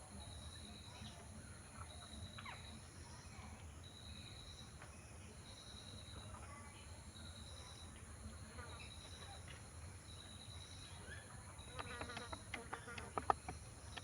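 An insect chirping in short, high, pulsing trills about once a second over a steady high hiss. Near the end come a quick run of sharp clicks and taps.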